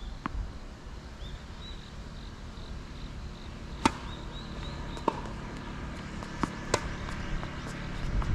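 Tennis rally on a hard court: a few sharp knocks of racket hits and ball bounces, the loudest about four seconds in. Steady low wind rumble on the microphone underneath.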